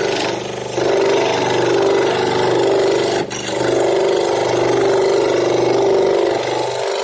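Electric power tool cutting or shaping wood, its motor running with a steady hum over a loud grinding, rasping noise. The sound dips briefly twice, as the tool's load on the wood changes.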